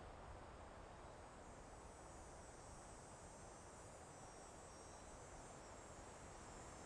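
Faint, soft wind in a forest, a steady low rush, with a thin high-pitched insect chirring that fades in about two seconds in.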